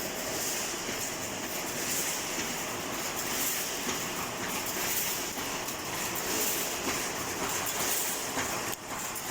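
Automatic wire mesh welding machine running, a steady machine noise with a strong hiss in the upper range.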